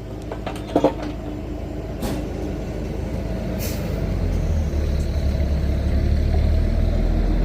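Heavy truck engine running with a low rumble that grows louder from about four seconds in, with short air-brake hisses around two and three and a half seconds in.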